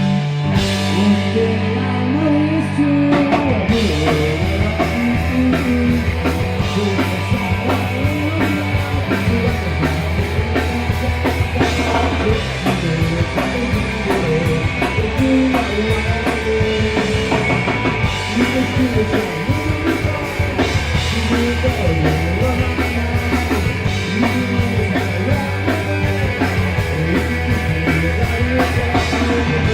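Punk rock band playing live: distorted electric guitars, bass guitar and a drum kit at full volume, with the drums filling in about three seconds in.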